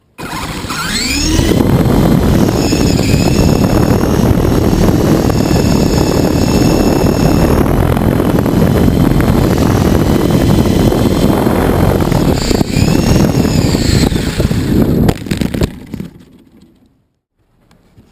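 H853 Hero RC helicopter's motors and rotors spinning up, then running in flight with a steady whine over heavy rotor-wash rumble on the helicopter-mounted GoPro's microphone. The whine dips and climbs again with a throttle change about three-quarters of the way through, then winds down and stops.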